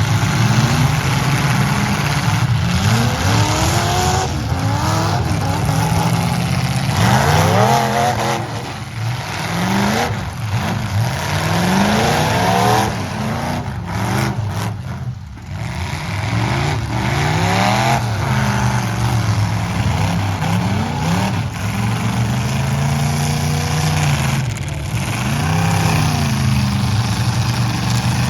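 Several demolition derby trucks' engines revving at once, their overlapping pitches rising and falling as they accelerate and back off, with a few sudden knocks about halfway through.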